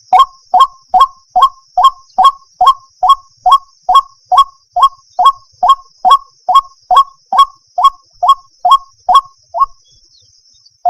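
White-breasted waterhen calling: a steady series of short, identical notes, about two a second, that breaks off shortly before the end.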